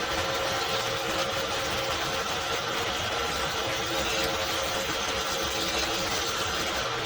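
An electric power tool running steadily: an even hiss with a faint constant hum.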